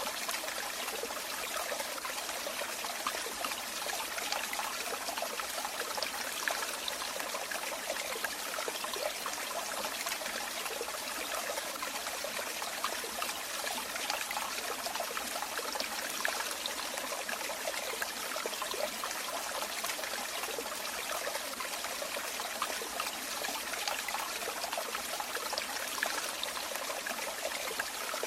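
Running water trickling and splashing steadily, like a small stream or water falling over stones, with a constant level and no pauses.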